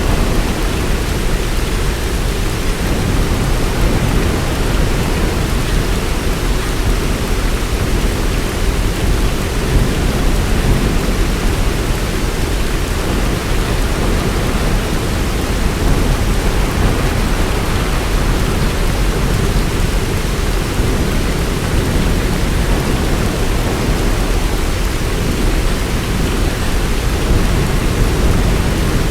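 Heavy rain falling steadily, an even hiss with a deep continuous low rumble underneath.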